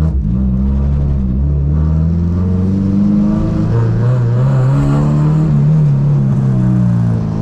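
Honda Civic's B20B 2.0-litre four-cylinder, built with a Type R head, high-lift cams and high-compression pistons, running with its engine note rising and falling a few times.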